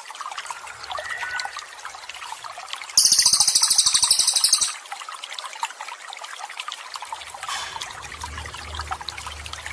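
Water trickling and splashing steadily. About three seconds in comes a loud, very high, rapidly pulsing trill that lasts under two seconds.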